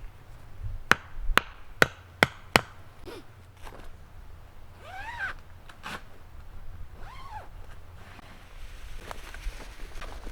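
Wood struck five times in quick succession, sharp chopping knocks about two to three a second. Later come two short calls that rise and fall in pitch.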